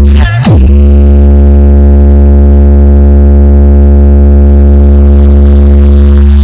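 A loud, sustained deep bass drone from a DJ sound-check track, one steady low note rich in overtones, with a quick pitch sweep down and back up about half a second in. It cuts off at the very end as the remix starts.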